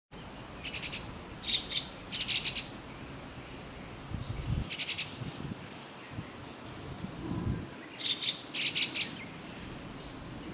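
White-cheeked starlings calling: short, harsh, rapidly pulsed chattering bursts, each well under a second, coming in clusters several times, the loudest pair near the end.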